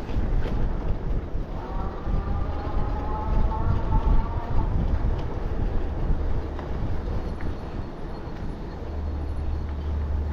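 Wind buffeting the microphone of a moving bicycle, a loud uneven rumble. A whine of several tones together comes in about two seconds in and lasts about three seconds.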